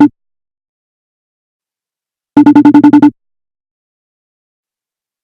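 Electronic trilling beeps, ringtone-style: a burst of about eight quick pulses lasting under a second, about halfway in, with the end of an earlier burst at the very start. Dead silence lies between the bursts.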